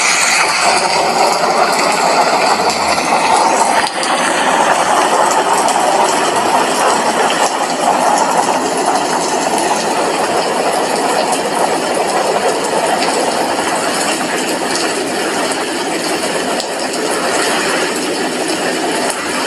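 Steady rain: drops falling on a glass window, an even, continuous hiss.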